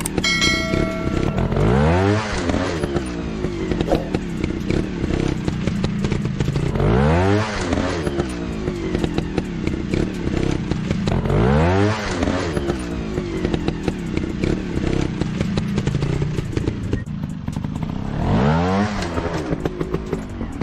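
A dirt-bike engine revving up four times, each rev a quick rise in pitch, over a steady run with a busy clatter of clicks and knocks.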